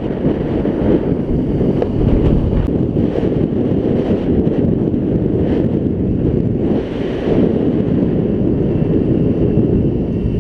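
Wind buffeting a helmet-mounted camera's microphone while riding a scooter: a loud, steady low rush.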